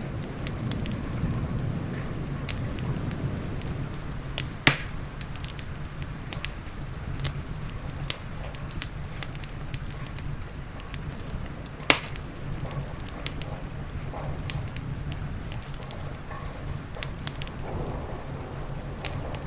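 Wood fire crackling in a fireplace, with frequent small snaps and two loud pops about five and twelve seconds in, over steady rain and a low rumble.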